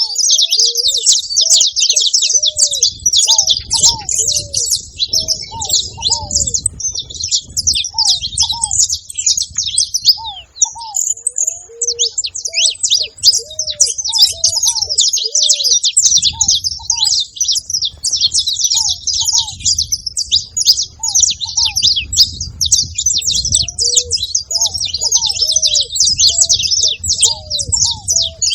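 Several saffron finches chirping and singing together in a dense, continuous chatter. Underneath runs a lower series of short, arched call notes, repeated every second or so.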